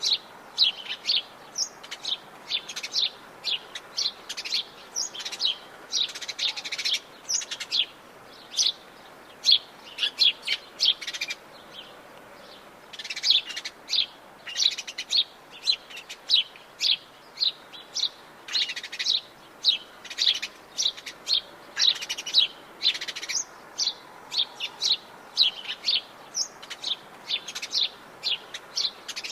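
Many birds singing and chirping in the Atlantic Forest, with dense overlapping short calls and a brief lull near the middle.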